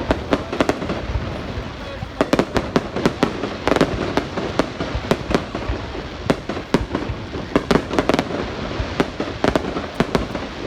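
Fireworks going off: many sharp bangs in quick, irregular succession, some in dense clusters.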